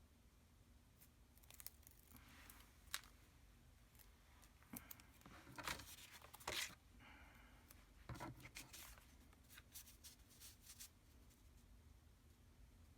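Faint handling of washi tape and paper: tape pulled and torn in short crackly strips, with scattered sharp taps, loudest in the middle.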